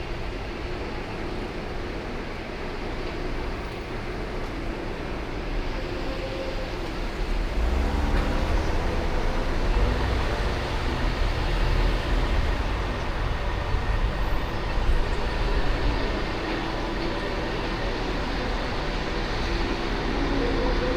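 A car being driven on city streets: steady engine and road noise with a deep rumble that grows louder about eight seconds in and stays up.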